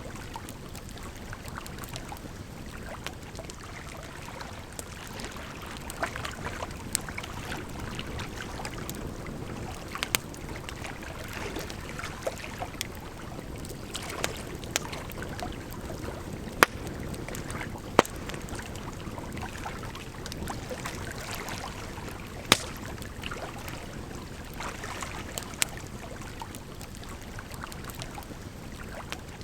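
Wood campfire crackling, with scattered sharp pops, a few of them loud, over a steady rush of flowing water.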